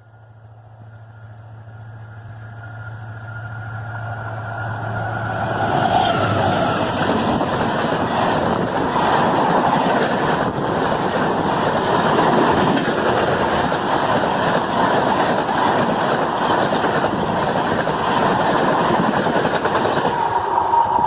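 Diesel-hauled passenger train approaching and passing: the locomotive's engine hum grows steadily louder over the first few seconds, then the loud, steady rumble and rattle of the coaches running by.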